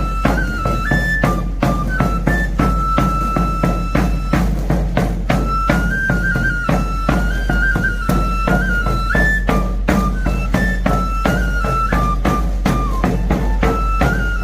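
A traditional pipe and tabor played together by one tamborilero: a high, shrill pipe melody stepping between held notes over steady drum beats, several strokes a second.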